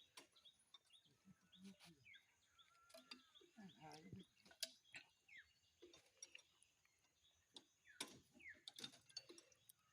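Near silence, with faint distant voices, a few light clicks and short high chirps.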